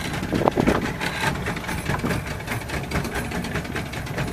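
A boat motor idling steadily, a low, even rumble.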